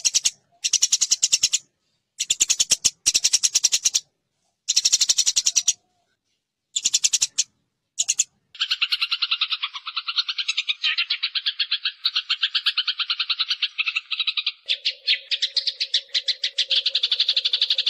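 Eurasian tree sparrows' fighting chatter: a fast, dry rattle, first in bursts of about a second with short gaps between them, then unbroken from about halfway. Near the end a steady lower tone runs under the chatter.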